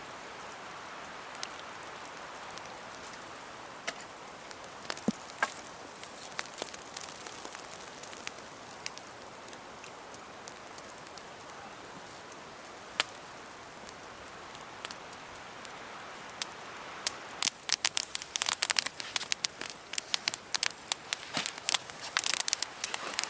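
Campfire crackling: a steady soft hiss with scattered pops, turning into a dense run of loud snaps and crackles about three quarters of the way through.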